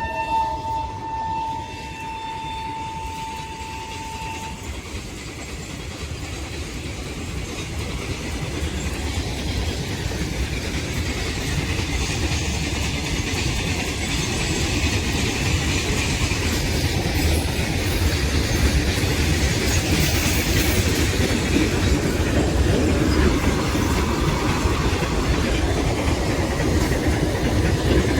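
Indian Railways train horn trailing off in the first few seconds, then a train running through on the rails, its rumble and wheel clatter growing steadily louder as it approaches and passes.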